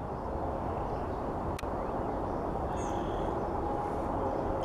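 Outdoor ambience: a steady low rumble with faint bird chirps about three seconds in and a single sharp click about a second and a half in.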